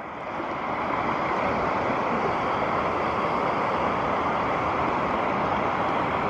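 Steady rush of falling water from a waterfall, rising in level about half a second in and then holding even.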